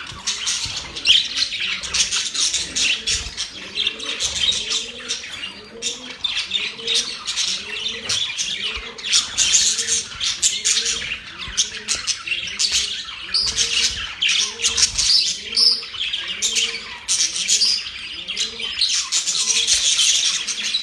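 Budgerigars chattering and warbling without a break, with rapid high chirps and squawks.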